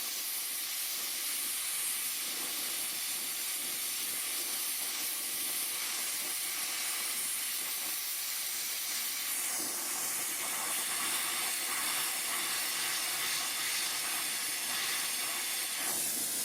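Gas welding torch flame hissing steadily while heating a wire-to-rod joint; the tone of the hiss changes slightly about nine or ten seconds in.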